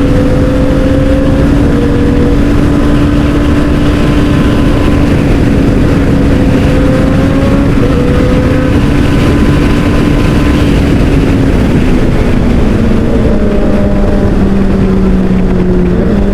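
Motorcycle engine running at a steady speed under loud wind rush. About twelve seconds in the engine note drops as the bike eases off.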